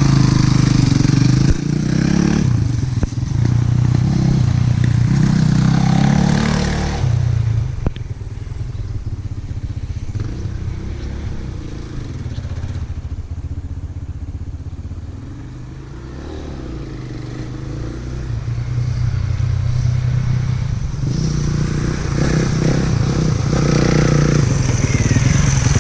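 Dirt bike engine running, loud at first, then fading away about 7 seconds in and growing louder again from about 17 seconds in as the bike is ridden away and back.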